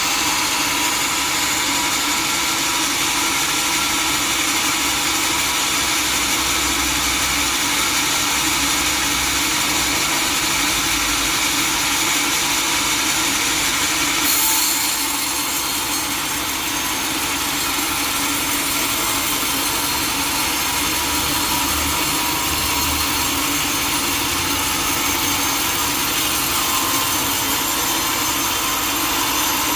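Sawmill saw running steadily as it cuts through teak wood, a constant machine hum with a hissing saw noise; the sound changes briefly about halfway through.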